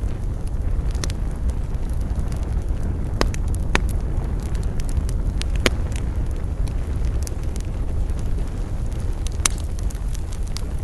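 Campfire burning: a steady low rumble of the flames with wood crackling and popping now and then, the sharpest pops about three, four, five and a half and nine and a half seconds in.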